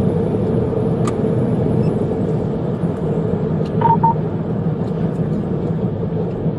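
Steady vehicle rumble and hum, with two short electronic beeps about four seconds in.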